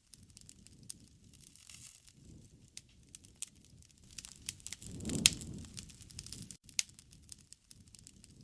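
Wood bonfire crackling, with irregular sharp snaps over a low rumble of flames and one louder pop about five seconds in.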